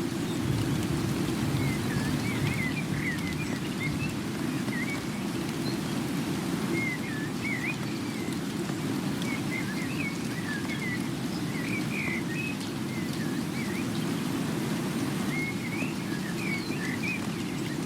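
Steady rain, heavy and low-pitched, with scattered clusters of short, wavy chirping calls above it.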